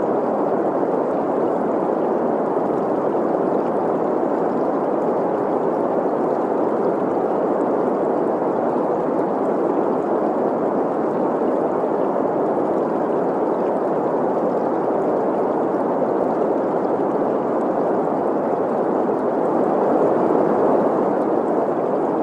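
Steady green noise, a hiss centred in the middle of the range, with a flowing stream mixed in. It swells slightly near the end.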